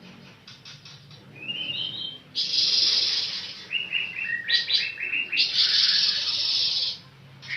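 A pancawarna songbird singing: a quick rising trill, then a long harsh hissing phrase, a run of short stepped chirps, and a second long harsh phrase.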